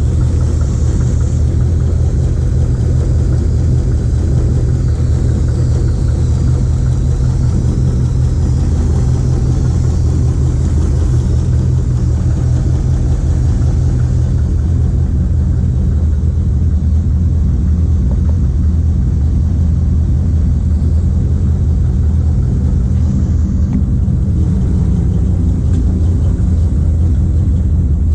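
1955 Ford Fairlane's engine idling steadily, warmed up after an easy start.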